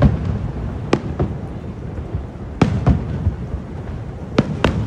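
Fireworks exploding: sharp bangs, mostly in close pairs, about every one and a half seconds, over a continuous low rumble.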